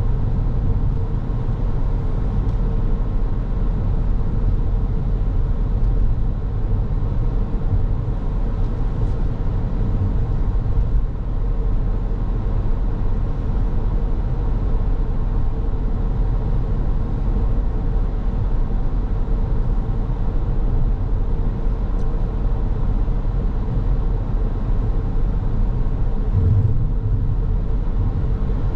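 Steady driving noise of a car on the road: a low tyre-and-engine rumble with a faint constant hum, no changes in pace.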